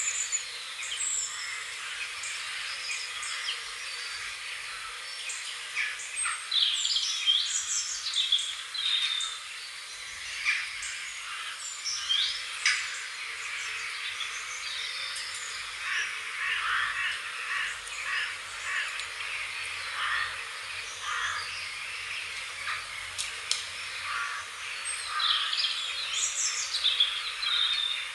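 Several songbirds chirping and singing, many short overlapping calls and trills, over a steady background hiss.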